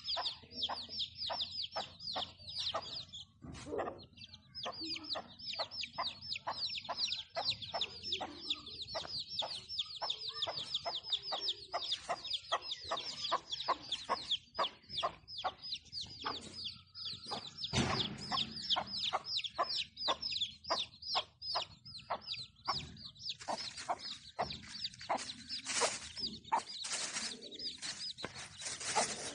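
Chicks peeping: a continuous run of rapid, high, falling chirps, several a second, with a hen clucking among them.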